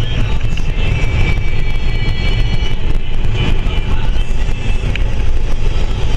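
Semi truck's engine and road noise, a steady heavy low rumble while driving.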